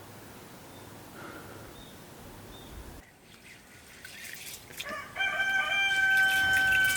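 A rooster crowing once, a long held call starting about five seconds in, over a faint steady hiss.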